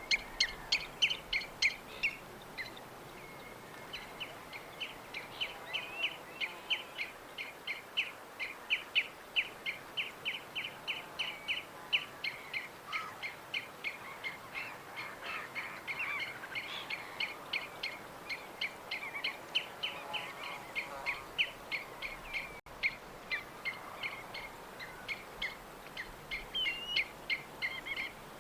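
Small songbirds chirping: a long run of short, sharp chirps, about three or four a second, over a steady background hiss, with a brief lull a few seconds in.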